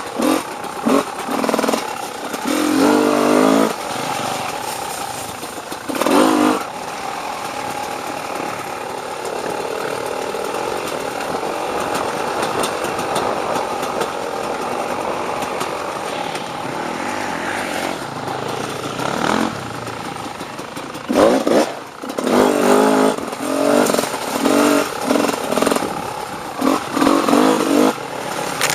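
Dirt bike engine running under way, with repeated revving bursts as the throttle is opened and closed. The bursts come most often in the last third.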